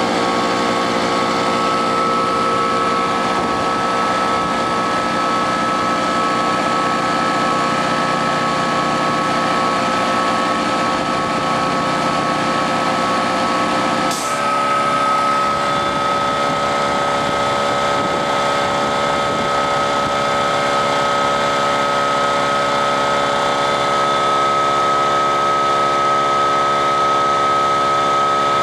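Small gasoline engine running steadily. About halfway through there is a sharp click and the engine note shifts, then holds steady again.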